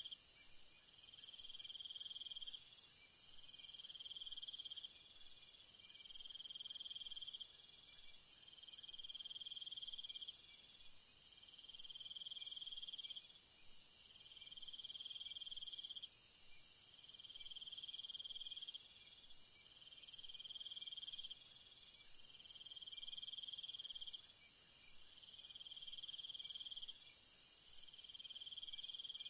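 Chorus of night insects trilling: a steady, very high-pitched shrill drone under a lower trill that comes in phrases of about a second and a half, repeating every two and a half seconds or so.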